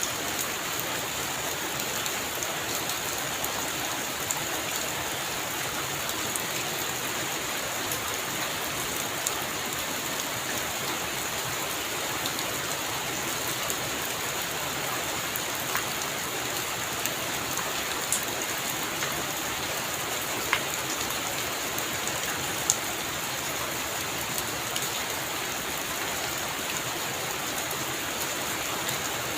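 Heavy rain falling steadily on a roof, with scattered sharp drop hits standing out now and then.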